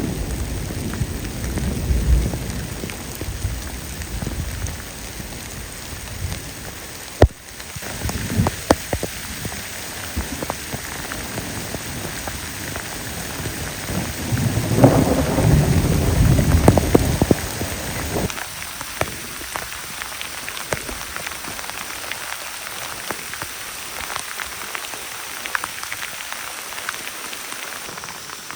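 Steady rain falling, with rolling thunder rumbling low at the start and again more loudly about fifteen seconds in; after the rumble fades, only the rain and scattered drops pattering remain.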